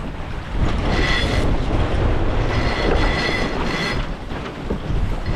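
A yacht's deck gear squealing under load in two stretches, a high thin tone about a second in and again midway, as a sheet is worked during a tack. Steady wind and water rush run underneath.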